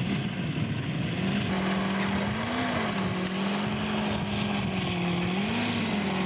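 Large-scale model aircraft engine, a 9-cylinder Seidel radial, running at a steady low speed. Its pitch lifts briefly twice, about two and a half and five and a half seconds in.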